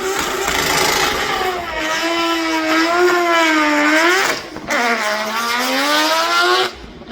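Competition car's engine accelerating hard up the hill climb, revving up through the gears: the pitch climbs, breaks off for an upshift about four and a half seconds in, drops and climbs again, then breaks off once more near the end.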